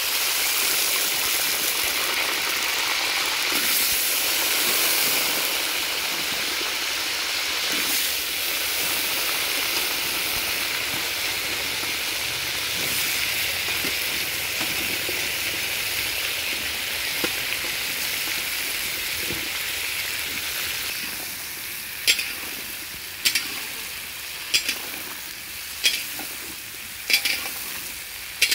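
Peeled whole potatoes frying in hot oil in a large iron kadai: a loud, steady sizzle that eases a little in the last third. Near the end a metal spatula knocks against the wok about once every second and a bit as it turns the potatoes.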